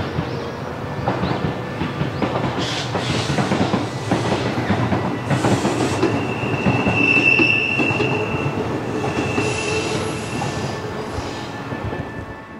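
Echizen Railway electric train passing, its wheels rumbling and clicking over the rail joints, with a high wheel squeal from about six to eight seconds in and again briefly near ten seconds.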